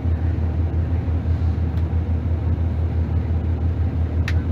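Scania DC9 five-cylinder diesel engine of a 2005 Scania Vest Center L94UB bus running with a steady low pulsing drone. A short high-pitched sound cuts in near the end.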